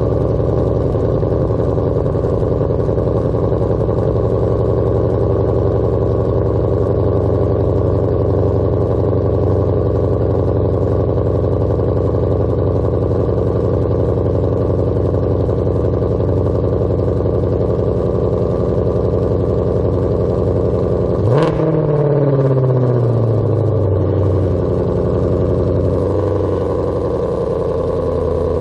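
2020 Ford Mustang Shelby GT500's supercharged 5.2-litre V8 at a steady, loud fast idle through the stock exhaust just after a cold start. About 21 seconds in, one quick rev sends the pitch up sharply, and it glides back down to idle over about three seconds.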